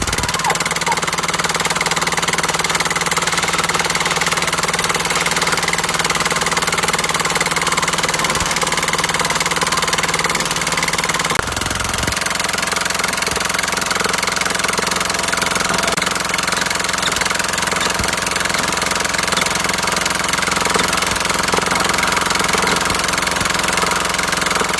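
Diesel engine running steadily. About halfway through there is a brief change in the sound, then it runs on evenly.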